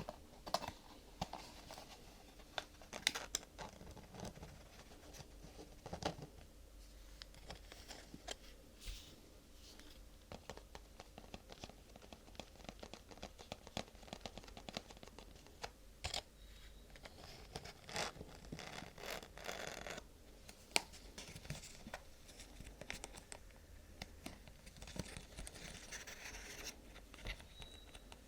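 ASMR handling of vinyl, paper and plastic: irregular crinkling and scratching, broken by sharp little taps and clicks.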